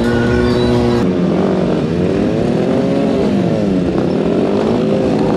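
Motorcycle engine revving, its pitch rising and falling again and again, with an abrupt change in sound about a second in.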